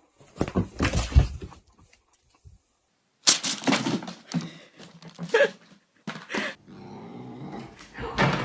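A dog making sounds in irregular bursts, with a pause of about a second and a half after the first ones.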